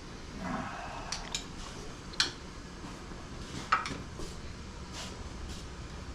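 Scattered metallic clinks and taps of hand tools on an outboard's lower unit as the stuck gearcase is worked loose. There are about seven short clicks, the loudest about two seconds in and just before four seconds.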